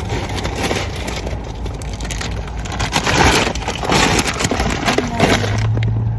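A plastic grocery shopping bag rustling and crinkling as it is handled, with dense crackling, loudest about three to four seconds in.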